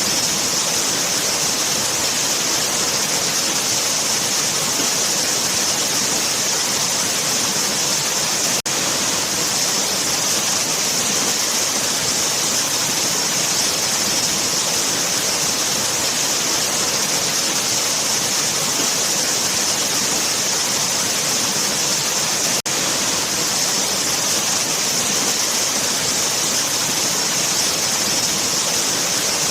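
Waterfall: a steady, even rush of falling water with a bright hiss. It drops out for an instant twice, about 9 and 23 seconds in.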